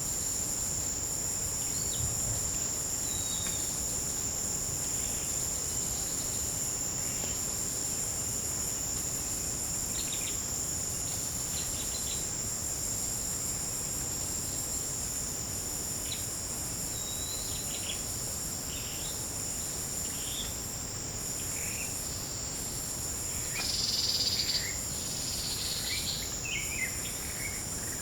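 Tropical forest insects keep up a steady, high-pitched drone with a pulsing hiss above it. Birds give short scattered calls over it, with a louder call a little after the middle.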